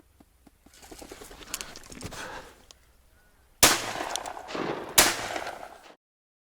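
Two shotgun shots about a second and a half apart, each followed by a rolling echo, fired at a drake flushing in flight, which the hunter then misses. Before the shots, a brief noisy flurry of movement.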